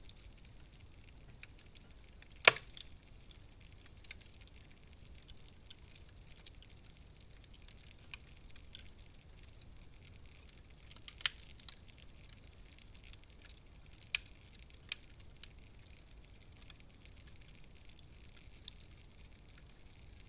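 Wood fire crackling: a faint steady hiss with sparse sharp pops every few seconds, the loudest about two and a half seconds in.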